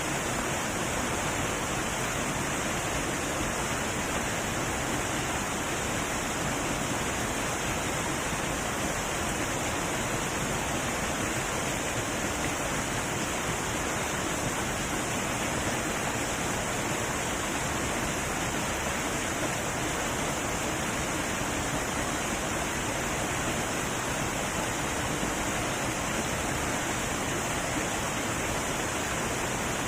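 Heavy waterfall, water pouring down in a steady, unbroken rush.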